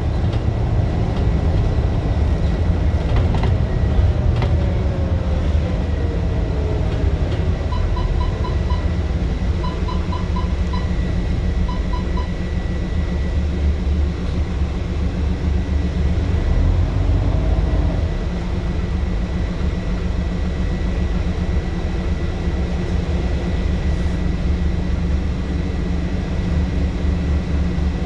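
Scania single-deck bus running under way, a steady low engine and drivetrain rumble. A whine falls in pitch a few seconds in, and three quick runs of short high beeps come about a third of the way through.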